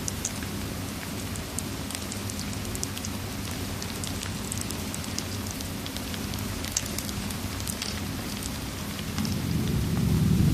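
Steady rain with scattered sharp crackles of a fireplace over it; a low rumble of thunder swells near the end.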